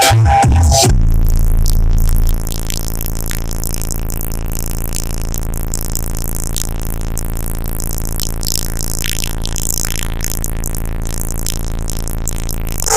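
Hip-hop track played loud through a car audio system with four 18-inch Resilient Sounds subwoofers: a heavy bass hit for the first two seconds or so, then a steady synth passage without vocals.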